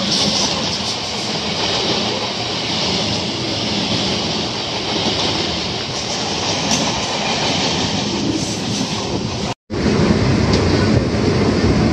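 Electric local trains running: a steady rumble and rattle of wheels on rail, heard from the open doorway of a moving train as another crowded local passes close alongside. The sound cuts out for an instant near the end, then carries on a little louder.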